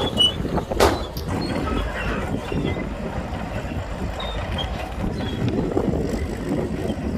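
Shantui crawler bulldozer running under load, its diesel engine rumbling while the steel tracks clank and squeak, with one sharp metallic clank about a second in.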